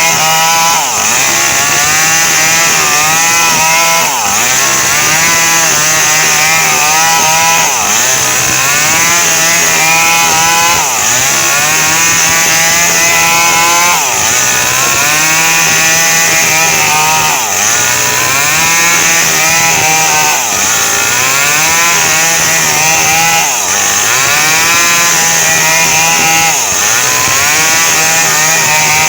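Small Stihl chainsaw running hard while sawing a coconut palm trunk. The engine pitch drops and recovers about every three seconds as the chain bites into the wood and eases off.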